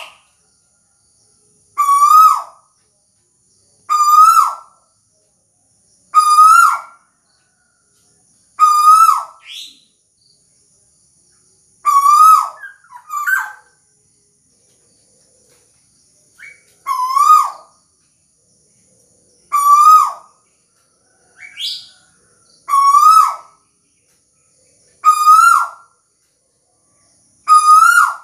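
Caged tuwu (lekkolek) bird calling: a single whistled note that rises and hooks down, repeated about every two to three seconds, about eleven times, with a few quieter higher notes in between.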